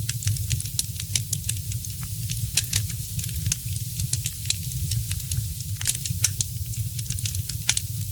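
Fireplace fire crackling: frequent irregular sharp pops and snaps over a steady low rumble and hiss.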